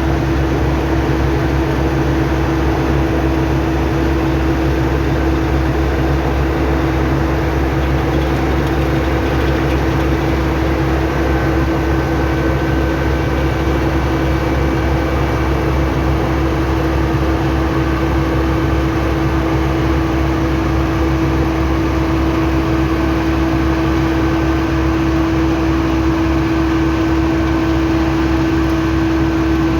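An engine running steadily at an even speed, with a constant hum and a steady whine that hold unchanged throughout.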